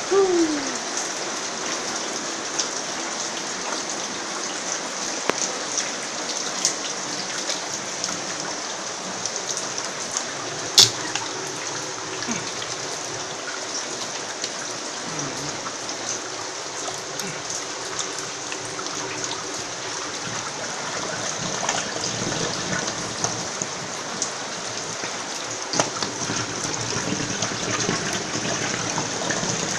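Steady rain with many small drips and splashes, and one sharp tap about eleven seconds in.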